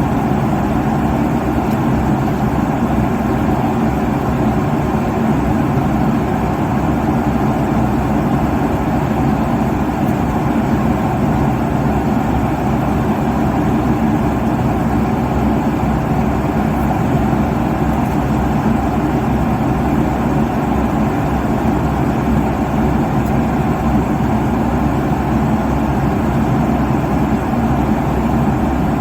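Steady airliner cabin noise at cruise: the constant low rush of engines and airflow heard inside the cabin, with no change in level.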